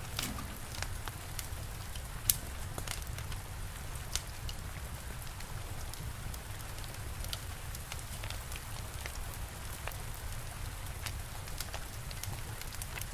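Steady rain with a wood fire crackling over it: a continuous hiss and low rumble, with sharp pops scattered irregularly through it and a louder pop about two seconds in.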